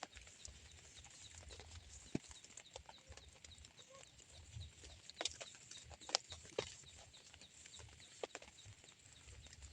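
Light drizzle falling, a soft steady hiss with scattered drops tapping at irregular intervals and a few louder single hits.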